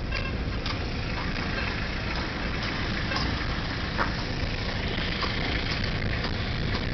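A car engine running at low speed, heard from inside the car, with the occasional clop of a walking horse's hooves on the asphalt street.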